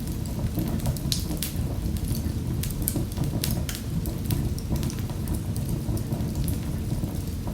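Wood fire in a fireplace crackling, with frequent sharp pops and snaps scattered irregularly over a low, steady rumble of the flames.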